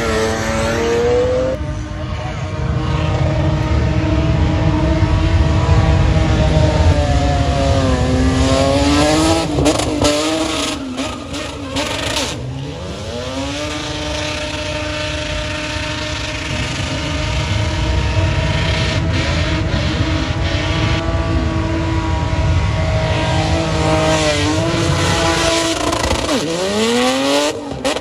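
An SUV's engine held at high revs while it drifts with its tyres spinning and smoking. The engine pitch falls and climbs back several times, over a hiss of tyre screech.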